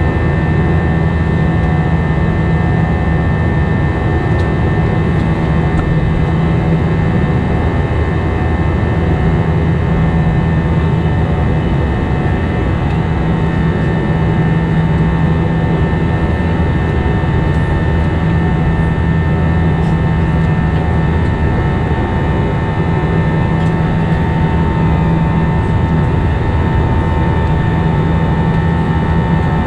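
Airbus A320 cabin noise: a steady jet-engine and airflow drone with a constant whine, and a low hum that comes and goes every few seconds.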